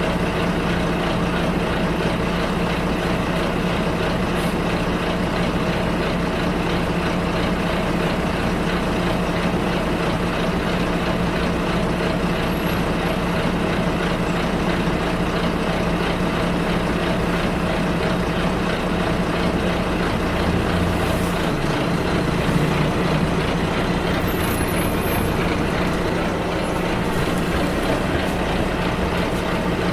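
Bus in motion heard from inside: a steady engine drone over road noise. About two-thirds of the way through, the engine note shifts lower for a second or two.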